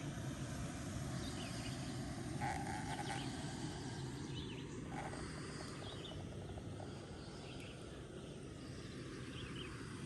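A man snoring: a rough, low, rumbling drone.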